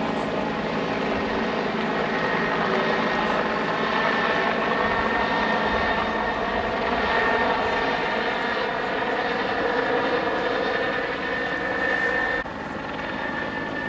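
Helicopter running steadily overhead. It drops suddenly in level near the end.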